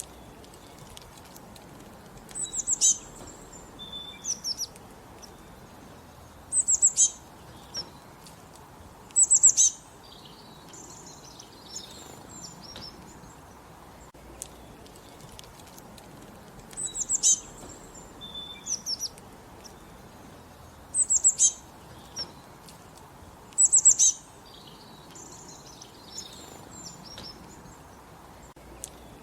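Songbirds singing: short, high-pitched bursts of rapid chirps every few seconds, over a faint steady background hiss, with a quieter gap of several seconds in the middle.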